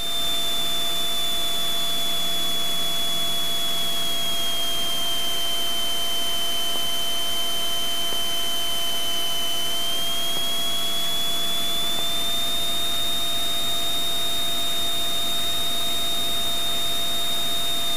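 Steady cockpit noise of a Cessna 182 Skylane's engine and propeller on final approach, heard through the headset intercom, with a high whine that sags in pitch a few seconds in and climbs back near the end.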